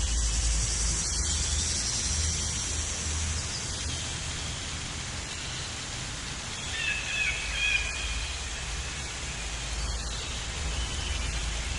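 Steady outdoor rushing noise with a low rumble, and a few short, high bird calls about seven seconds in.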